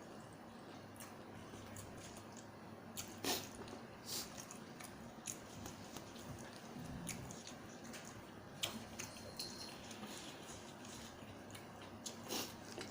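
Faint eating sounds: scattered small clicks and soft wet squishes of someone chewing and handling a spicy seafood salad.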